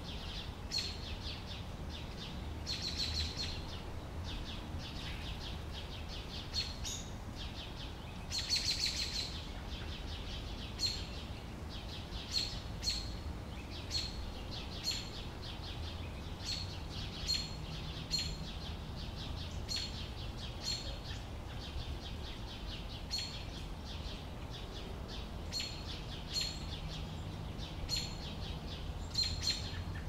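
Small bird chirping: short high calls repeated about once a second, with a few longer chattering bursts in the first ten seconds, over a steady low background rumble.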